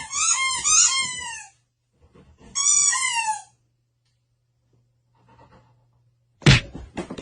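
A small animal giving a quick run of high squeaky calls, each rising and falling in pitch. One more call comes about three seconds in, and two sharp knocks follow near the end.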